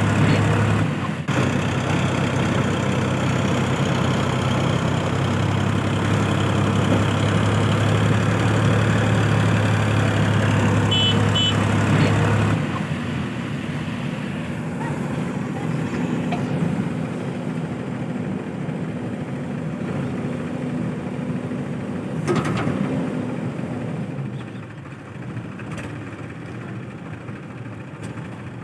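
Heavy diesel engine running with a steady low hum. About halfway through it drops to a quieter run, with a single sharp knock later on.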